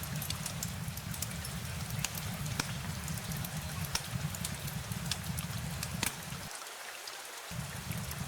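Steady rain with scattered sharp drop ticks over a low rumble; the rumble drops out for about a second, about six and a half seconds in.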